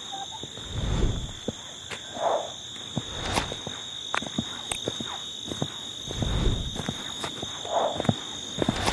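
Frogs croaking, two short calls about five seconds apart, over a steady high-pitched insect drone, with scattered clicks and a couple of low rumbles.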